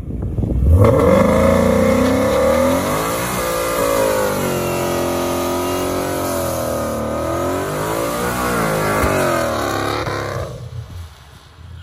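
Ford Mustang GT's 5.0 Coyote V8 held at high revs through a burnout while the rear tyres spin. The engine climbs sharply about half a second in, its pitch rising and falling several times as the throttle is worked, then drops away near the end.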